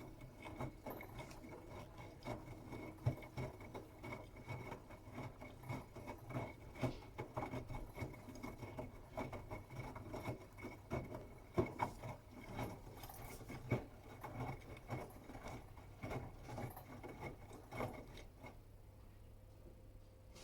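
Bosch Serie 8 WAW32590 washing machine drum turning in the wash, laundry tumbling with irregular soft knocks and patter over a steady hum. The tumbling stops near the end, leaving only the hum.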